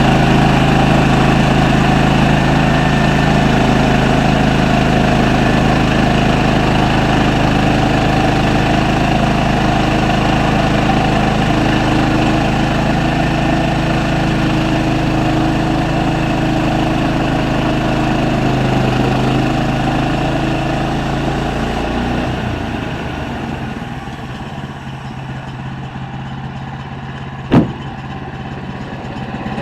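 Sawmill engine running steadily, then dropping down and quietening about three-quarters of the way through. A single sharp knock near the end.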